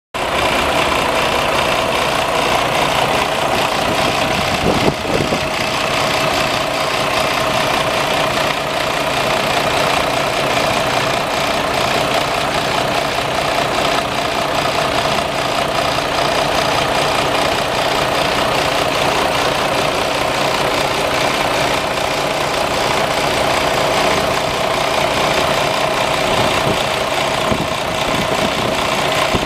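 Detroit DD15 inline-six diesel engine of a Freightliner Cascadia truck idling steadily, with a brief bump about five seconds in.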